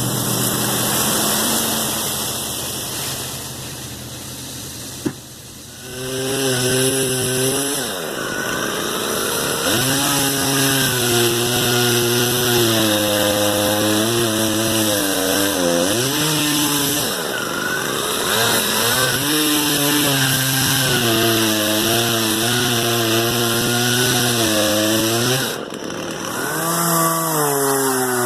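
Two-stroke chainsaw running at high revs and cutting wood, its pitch sagging under load and recovering several times. It drops to a lower, quieter run a few seconds in, then revs up again about six seconds in.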